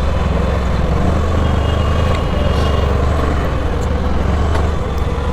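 Bajaj Dominar 400 motorcycle's single-cylinder engine running steadily under way, with road and wind noise.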